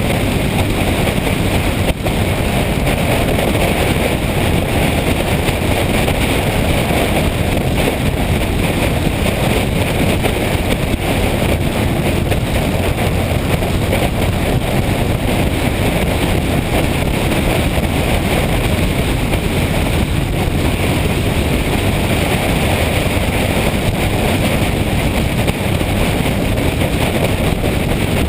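Steady wind rush over the microphone with the drone of a motorcycle and its road noise underneath, as the bike rides at a steady speed.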